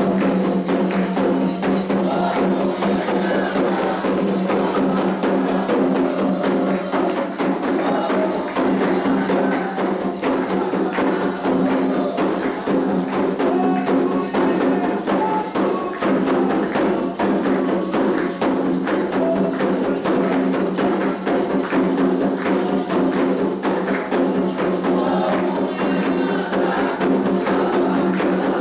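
Candomblé ritual music: atabaque hand drums beating a fast, dense rhythm with a struck bell or wood-like timekeeper, over voices singing.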